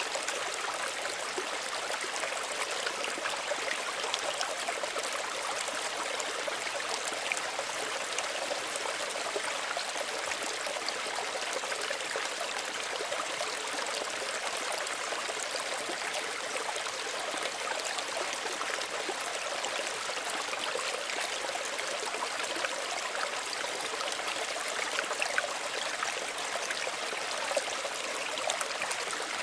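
Small stream running steadily over stones, an even babble of water with small splashes and trickles throughout.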